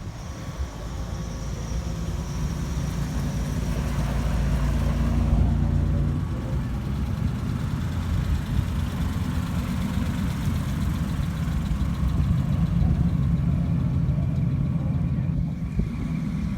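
A car engine running at idle with a steady low rumble, growing somewhat louder a few seconds in and again near the end.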